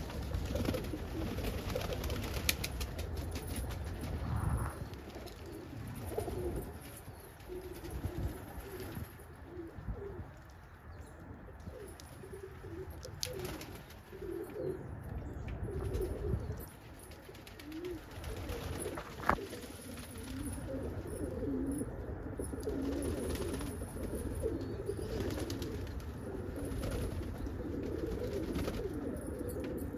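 Domestic pigeons cooing, several low coos overlapping, with a few scattered sharp taps, the loudest about two-thirds of the way through.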